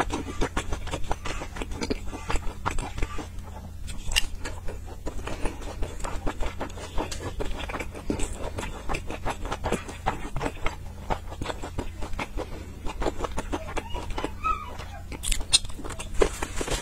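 Close-miked eating sounds of someone chewing and biting into soft steamed buns: irregular wet mouth clicks and smacks, several a second.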